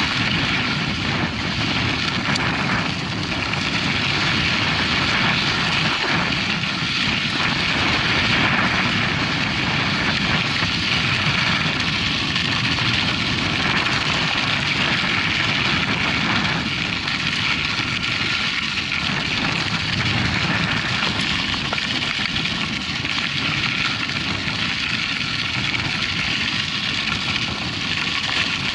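Steady wind rush on the camera microphone while mountain biking, with no pauses or sharp events.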